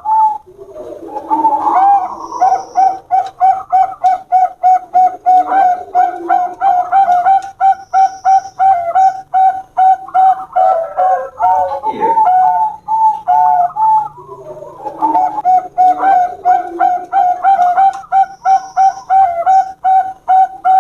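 Zebra doves (perkutut) cooing: rapid strings of short, evenly spaced coos, with a brief break about two-thirds of the way through.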